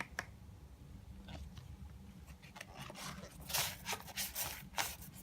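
Rustling and scraping as a coloring book and other items are pushed into a small bag that they won't fit in, with several louder scrapes in the second half.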